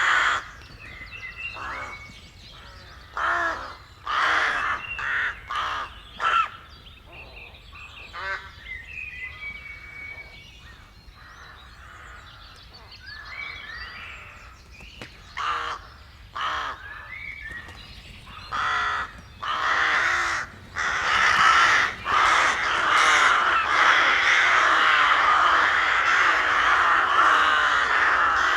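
Birds calling with harsh, separate calls a second or two apart, then from about twenty seconds in many birds calling at once in a dense, continuous chorus.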